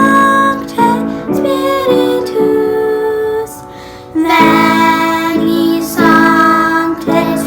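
Children's choir singing a sacred song with instrumental accompaniment; the voices break off briefly about halfway through before the next phrase.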